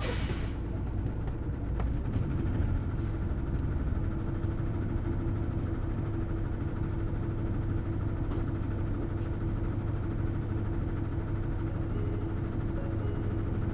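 Hino Blue Ribbon City Hybrid bus's diesel engine idling steadily, with a short hiss of air at the start and another brief hiss about three seconds in.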